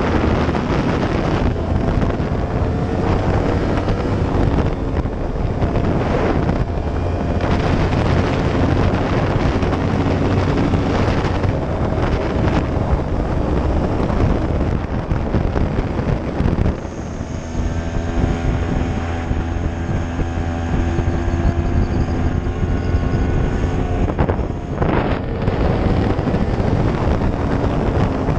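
2015 Yamaha YZF-R1's crossplane inline-four engine running under way, its pitch rising and falling, with heavy wind noise on the microphone. About 17 seconds in the sound dips briefly, then the engine holds a steady note for several seconds.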